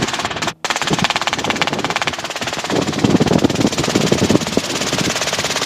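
Robinson R22 helicopter cabin noise: its engine and rotor running as a fast, even pulsing. The sound drops out briefly about half a second in and grows stronger in the low range midway.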